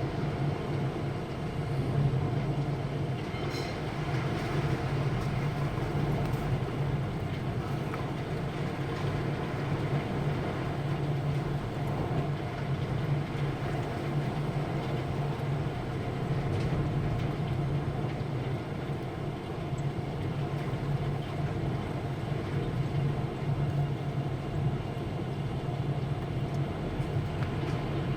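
Heavy thunderstorm downpour: a steady, unbroken roar of rain, with a few faint sharper ticks.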